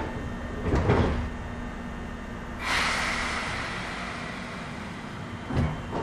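Inside an Izukyu 8000-series commuter train standing at a station: a door thud about a second in, then a sudden hiss of compressed air that fades slowly, over a steady low hum from the train's equipment.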